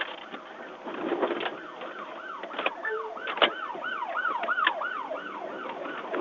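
Emergency vehicle siren wailing in quick repeated falling sweeps, about two to three a second, coming in about a second in, with a few sharp clicks over it.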